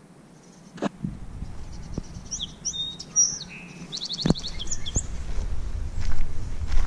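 Small birds chirping a quick series of short high calls in the middle. Two sharp knocks, and a low rumble that builds near the end.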